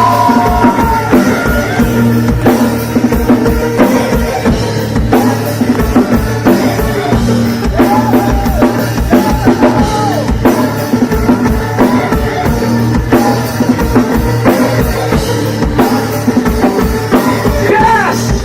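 Band playing an instrumental section of a rock song: a steady drum-kit beat with bass drum and snare over sustained bass notes and melodic lines, no vocals.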